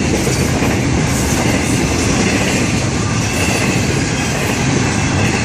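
Florida East Coast Railway freight cars rolling past at close range. Steel wheels on the rail make a loud, steady rumble and clatter.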